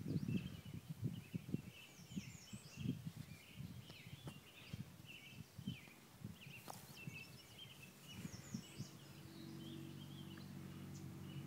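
Songbirds chirping repeatedly in the background, with irregular low bumps of wind or handling on the microphone. About three-quarters of the way through a steady low hum comes in.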